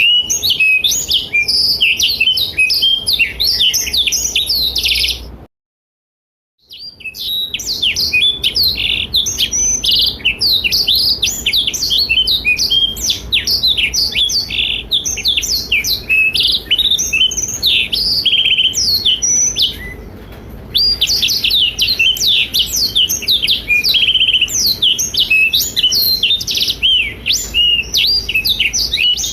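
Black-throated canary (blackthroat) singing a long, rapid, unbroken run of high twittering and trilled notes. The song cuts out completely for about a second some five seconds in, and dips briefly near twenty seconds.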